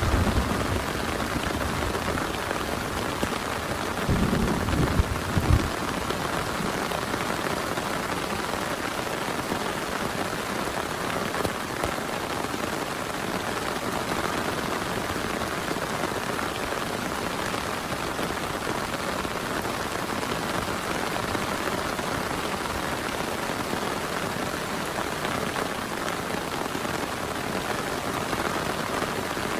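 Heavy rain falling steadily, a dense even patter of drops, with a brief low rumble about four seconds in.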